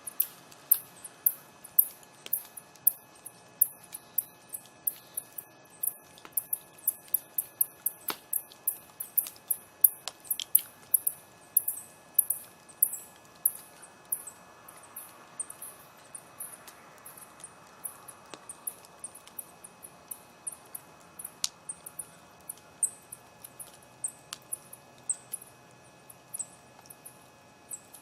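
Campfire crackling: sharp, high-pitched snaps from burning wood, several a second and irregular, with a few louder pops. The crackling thins out over the second half.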